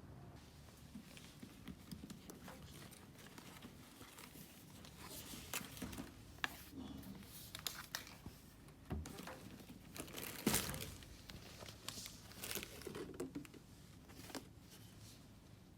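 Crinkling and rustling of something being handled, with scattered light taps and knocks. The loudest clatter comes a little past the middle.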